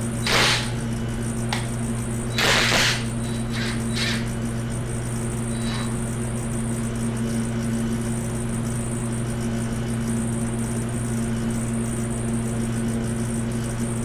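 Steady low hum with a few brief scraping noises in the first six seconds, the louder two about half a second and two and a half seconds in, as hand tools work parts off an engine.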